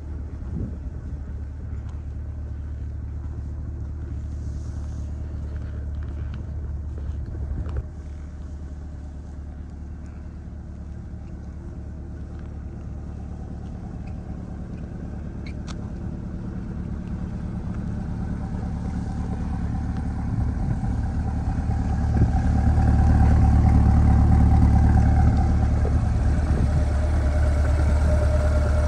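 2021 Corvette Stingray's mid-mounted 6.2-litre V8 idling through its factory performance exhaust. The idle is low and even, and it grows louder over the last third.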